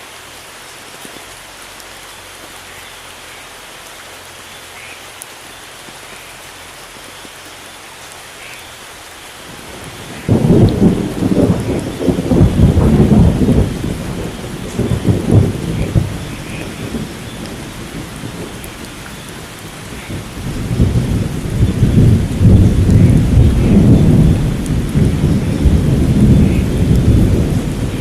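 Steady rain falling, then about ten seconds in a loud, low rolling rumble of thunder breaks in and slowly dies away, before a second long rumble builds up near the end.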